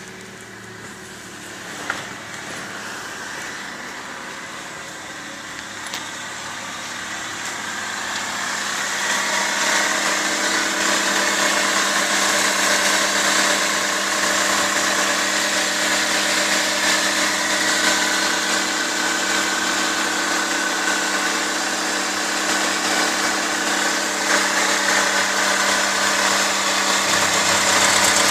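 Toyota 4ZZ-FE 1.4-litre four-cylinder petrol engine idling steadily. Its sound grows louder around eight to ten seconds in and then stays even.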